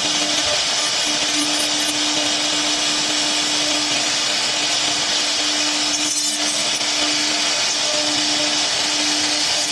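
CNC router spindle running at steady speed, a constant high hiss over a steady hum, with a short rasp about six seconds in.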